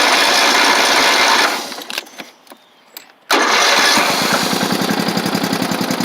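Early-to-mid-1980s Simplicity lawn tractor engine being cranked on a jump pack in two tries: one crank that stops about one and a half seconds in, then after a short pause a second crank with a rapid, even chugging that slowly weakens. The engine fails to start.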